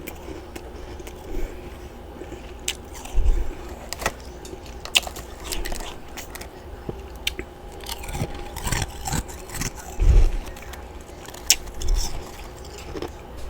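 Person biting and chewing large chunks of freezer frost, with irregular crisp crunches and heavier thudding bites about three seconds and ten seconds in.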